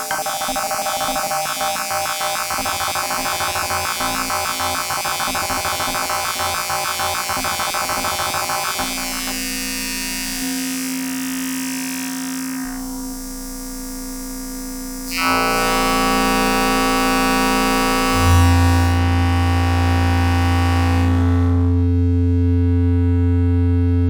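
Electronic synthesizer soundscape: a fast pulsing, buzzing texture gives way to held drone tones, with a deep bass tone entering about three quarters of the way through.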